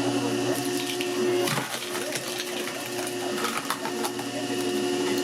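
A small motor humming steadily, with a short clatter of knocks about a second and a half in.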